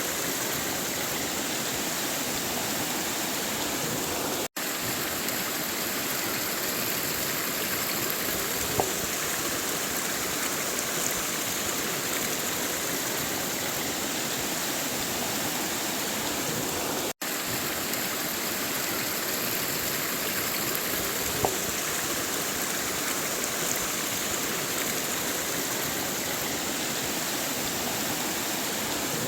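River water flowing with a steady rushing sound. It cuts out for an instant twice, about four and a half and seventeen seconds in.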